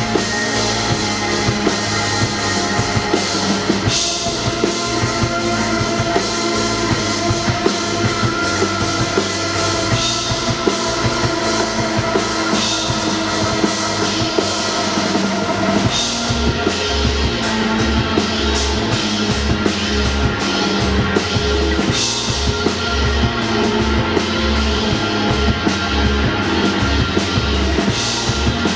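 Rock band playing live: drum kit, bass and guitar, with crash cymbal hits about every six seconds. About halfway through, the bass shifts to a pulsing, stop-start rhythm.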